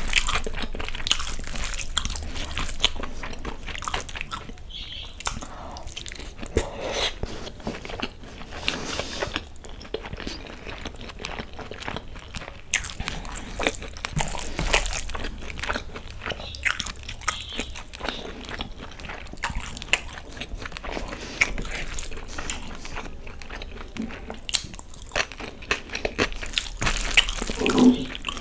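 Close-miked chewing and wet mouth sounds of a person eating chicken egg fried rice and chicken Manchurian by hand. Through it runs the soft squish of fingers mixing rice into the Manchurian gravy on the plate.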